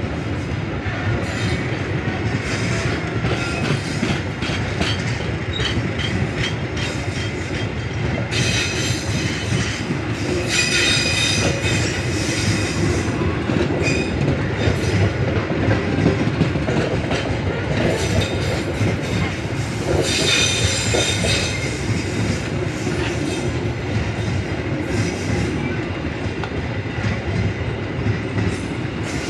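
Indonesian passenger coaches rolling past: a steady rumble of steel wheels with clickety-clack over the rail joints. High-pitched wheel squeal rises about a third of the way in and again past the middle.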